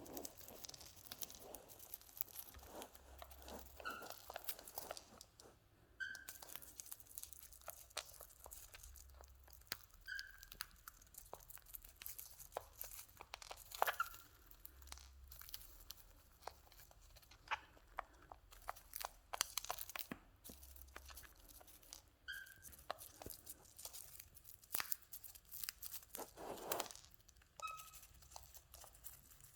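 Cockatiels cracking and chewing seeds and snacks: many quick small cracks and crunches with husks tearing, and a few brief high peeps in between.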